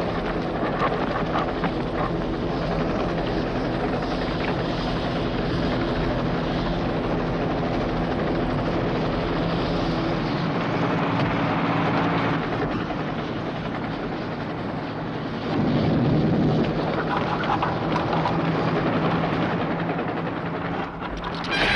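A helicopter running: a steady rotor and engine drone that swells louder about two-thirds of the way through.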